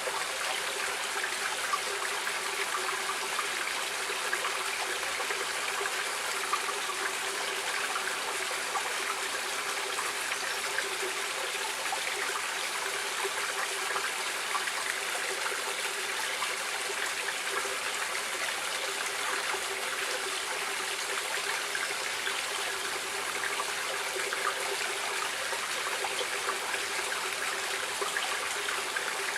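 Running water of a stream, a steady unbroken rush with a fine splashing texture.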